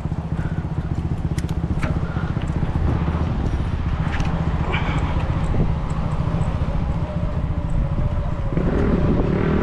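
450 supermoto motorcycle's engine running with a fast, even beat, growing louder near the end.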